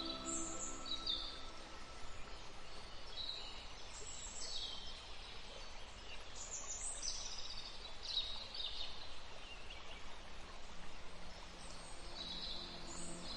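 Small birds chirping: short high phrases, several sliding downward, repeated every second or two over a steady background hiss.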